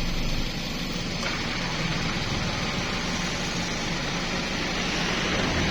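A motor running steadily under a constant hiss.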